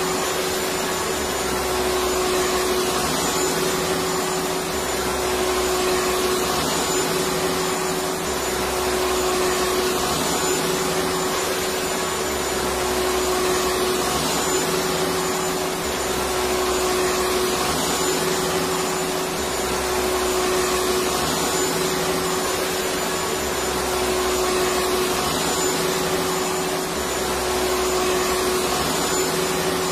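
Electric vacuum cleaner running steadily: a constant rush of air with a steady hum, and a slight low swell that comes and goes every few seconds.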